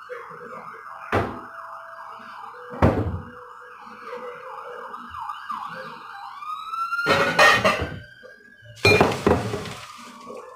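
An emergency vehicle siren in a fast warble, switching about six seconds in to a slower rise and fall. Over it, a cooking pot knocks and clanks four times as it is handled and set down.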